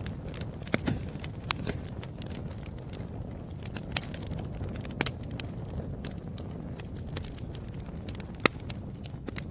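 Campfire crackling: scattered sharp pops and snaps of burning wood over a steady low rush of flame, with the loudest pop near the end.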